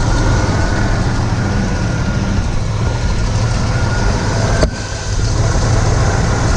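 1981 Jeep CJ7 engine idling steadily, heard close up from the open engine bay, shortly after its first start in months and running smoothly so far.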